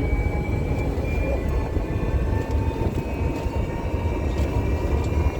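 Steady low rumble of a vehicle in motion, with faint steady high whining tones above it.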